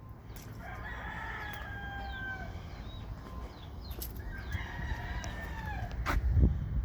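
A rooster crowing twice, each crow about a second and a half long, over a steady low rumble. Near the end there is a sharp click, then a low thump, the loudest sound here.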